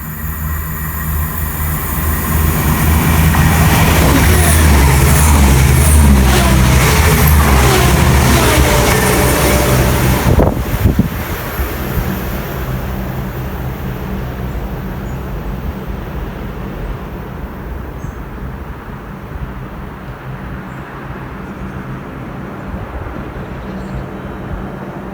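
A train passing through a station: its noise builds to a loud run of wheel clatter with sliding pitches, then falls away sharply about eleven seconds in, leaving a steadier low rumble.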